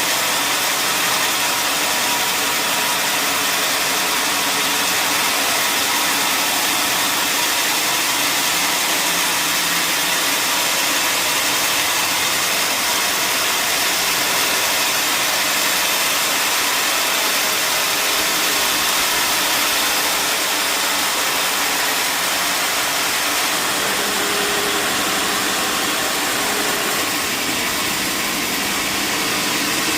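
Sawmill saw running steadily at a giant log, an even mechanical noise with a strong hiss.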